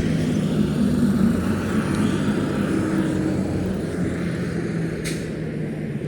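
A steady engine drone with a low hum, swelling in the first second and then slowly fading.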